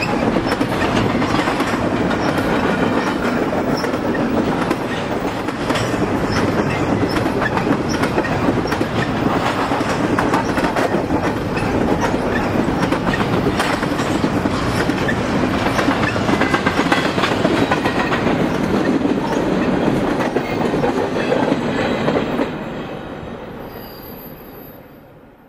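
Union Pacific double-stack intermodal train's well cars rolling past at close range: a steady noise of steel wheels on rail with many quick clicks as the wheels cross rail joints. It fades out over the last three seconds.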